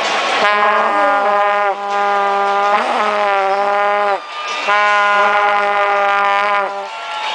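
Vuvuzela blaring: two long held blasts of its buzzy horn tone, the pitch sagging as each blast ends.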